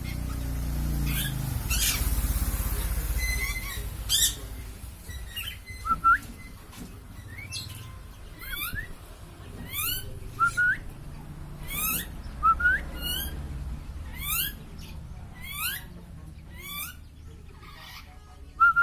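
A hungry lory (nuri parrot) calling over and over, with short, shrill rising squeaks about once a second; these are typical of food-begging calls. A low rumble runs under the first few seconds.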